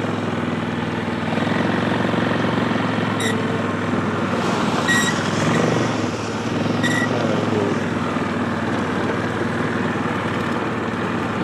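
ATV engine running steadily while plowing slush. Three short high-pitched beeps sound in the middle, about two seconds apart.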